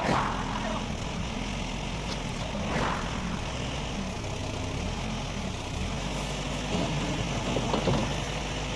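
A vehicle engine running steadily at low revs, with a few brief clunks over it.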